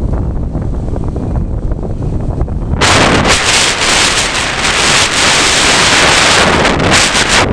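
Strong wind buffeting the microphone with a low rumble; about three seconds in a much louder rushing hiss sets in suddenly, a gust, and holds until near the end.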